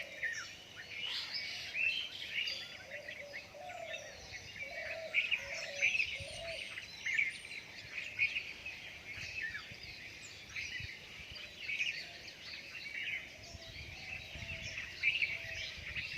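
Dawn chorus: many birds chirping and singing at once in dense, overlapping short calls and trills, with a few lower warbling calls beneath them.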